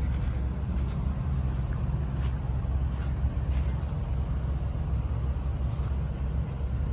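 Diesel engine of a Caterpillar 345BL excavator running steadily at idle, a low even rumble.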